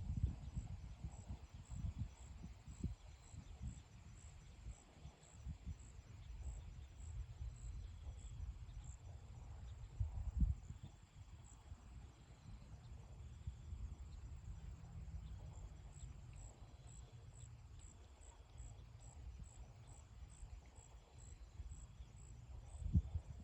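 Wind gusting against the microphone in a low rumble, with louder gusts about ten seconds in and near the end. Over it, a cricket chirps in a steady high pulse, a little over two chirps a second; it falls silent for several seconds midway, then starts again.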